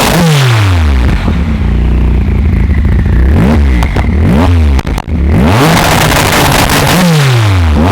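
A tuned car's engine is revved repeatedly, its pitch sweeping up and falling back in quick blips, with a steadier stretch about a second in. Sharp crackles come from the exhaust between revs.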